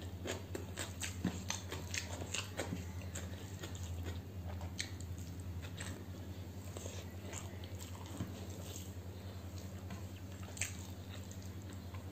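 Close-up mouth sounds of a person eating rice and curry by hand: wet chewing and lip-smacking clicks, dense in the first few seconds and sparser after. A steady low hum runs underneath.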